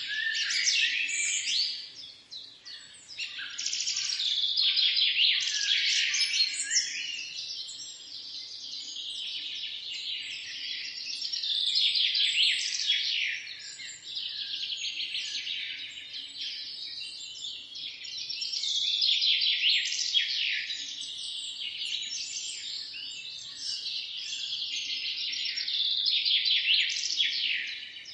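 Chorus of many birds chirping and twittering rapidly, swelling louder and fading back in waves every several seconds.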